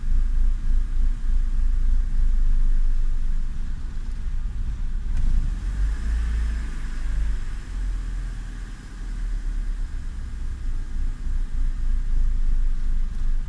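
2000 Honda Civic's four-cylinder engine idling cold with an unsteady idle that sags and climbs again by itself, about halfway through. The idle hunting persists despite a new idle air control valve.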